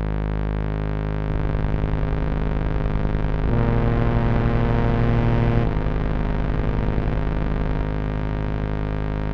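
Electronic music: a sustained synthesizer drone of several steady stacked tones, which begins to pulse about a second in; a deeper tone swells in near the middle and drops out about two seconds later.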